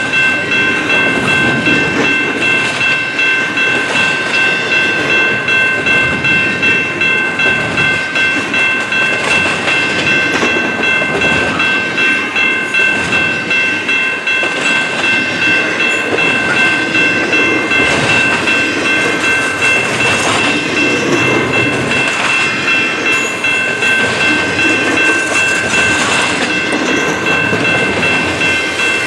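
Slow-moving intermodal freight train rolling past, its wheels rumbling and clacking over the rail joints, with several steady high-pitched ringing tones held over it throughout.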